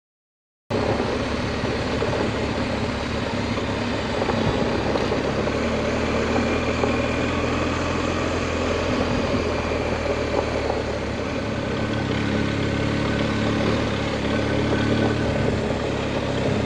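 BMW adventure motorcycle engine running steadily at low speed, with wind and road noise over the helmet camera microphone. The sound cuts in abruptly after a split second of dead silence.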